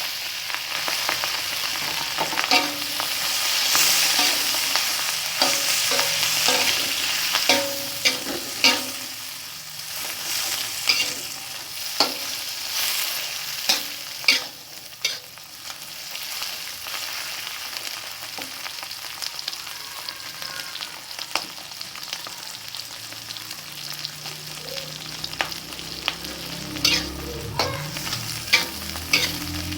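Shredded cabbage and other ingredients sizzling in a hot frying pan as they are stir-fried, with a utensil clinking and scraping against the pan at irregular moments. The sizzle is loudest in the first ten seconds and settles somewhat quieter after.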